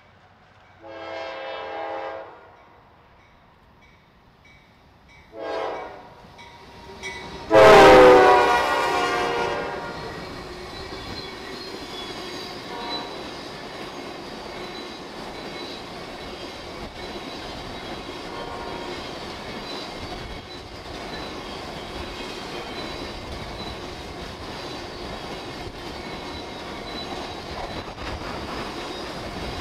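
Freight train's locomotive air horn sounds three times, long, short, then a loud long blast as the locomotives pass. After that come the steady rumble and clickety-clack of a long string of tank cars rolling by close, with faint wheel squeal.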